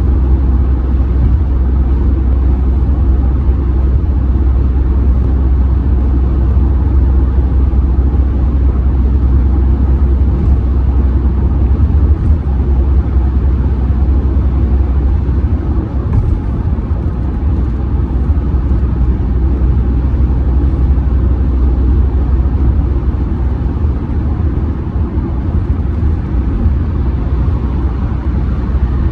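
Steady low rumble of tyre and road noise mixed with the 2.0 TDI four-cylinder diesel engine, heard from inside the cabin of a 2007 Audi A6 C6 cruising at highway speed.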